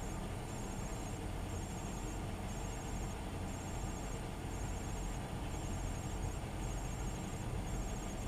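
Steady low rumble of idling truck engines, with a faint high pulsing chirp repeating about once a second.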